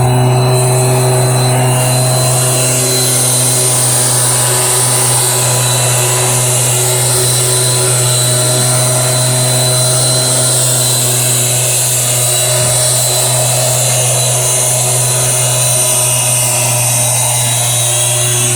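Small engine of a motorized garden sprayer running steadily, with a constant hum and a high hiss.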